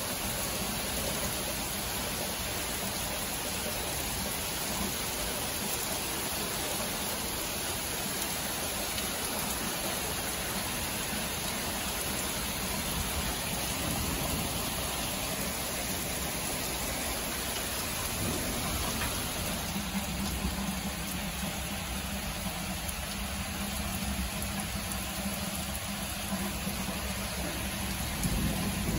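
Steady rain falling during a thunderstorm, an even hiss with no distinct breaks.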